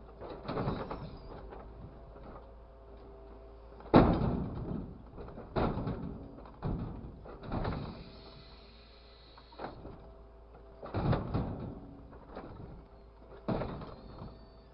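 An irregular series of knocks and thuds, several seconds apart, with the sharpest one about four seconds in.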